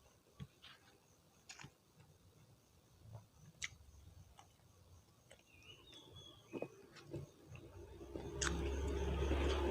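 Close-miked eating sounds: soft, scattered mouth clicks and wet chewing, growing into a louder, denser stretch of chewing about a second before the end.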